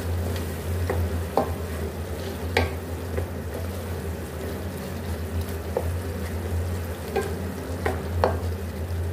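Chicken pieces and peas sizzling as they fry in oil with ground spices in a metal pan, while a spoon stirs them, scraping and knocking against the pan now and then. A steady low hum runs underneath.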